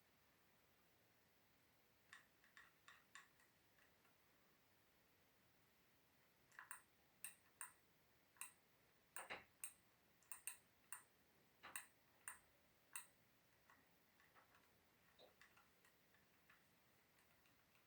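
Faint, irregular sharp clicks or ticks over near silence. A sparse few come about 2 s in, a denser run follows from about 6.5 to 13 s, and fainter ones come after that.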